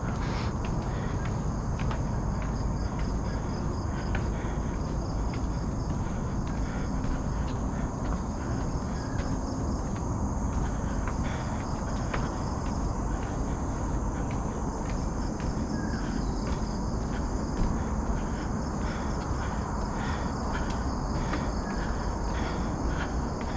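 Tropical forest insects keep up a steady, fast-pulsing high chirring, over a low rumble from the moving action camera's microphone. Short footfall clicks come at a regular pace.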